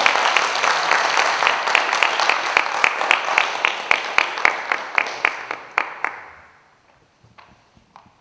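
Audience applauding, with one clapper near the microphone standing out at about five claps a second; the applause fades away about six seconds in, leaving a few faint knocks.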